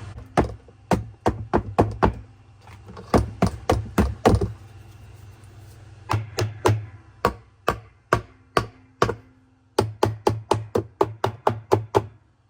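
Repeated sharp knocks on the seized washer washplate and hub, coming in uneven bursts of about two to four a second, over a steady low hum.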